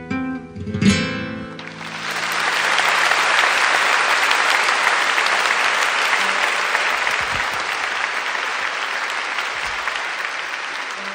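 The song ends on a final chord about a second in, then an audience applauds, the applause building and slowly fading near the end.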